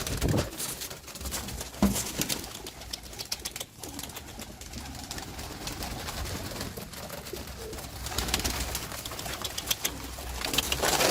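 Homing pigeons cooing, with scattered short clicks and knocks throughout.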